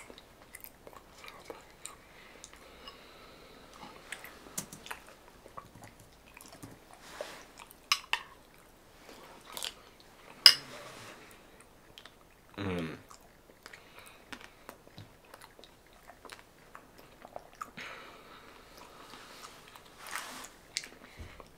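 A person chewing a soggy breakfast eaten by spoon from a plastic bowl, with scattered sharp clicks, the loudest about ten and a half seconds in. A short hummed vocal sound that falls in pitch comes just before thirteen seconds.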